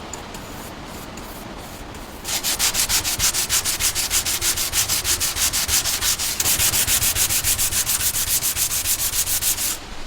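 Abrasive rubbing back and forth, like hand sanding. It is quiet at first, then from about two seconds in it turns loud, in quick, even strokes of about eight a second, and it stops shortly before the end.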